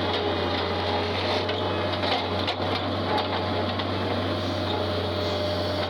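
Tractor engine running steadily at constant speed, a low even drone with a few steady higher tones over it.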